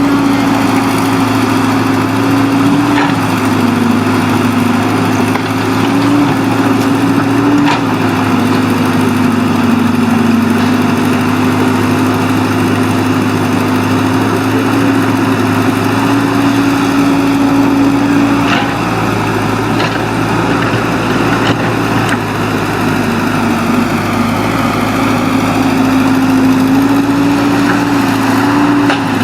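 Excavator's diesel engine running steadily at working speed, its pitch stepping up and down a little as the machine works, with a few faint knocks.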